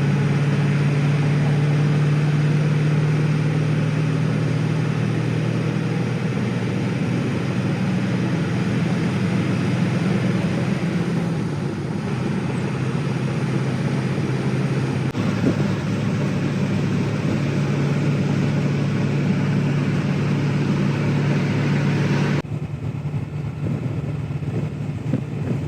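A road vehicle's engine running steadily at an even pitch. The sound changes abruptly about fifteen seconds in and again about twenty-two seconds in.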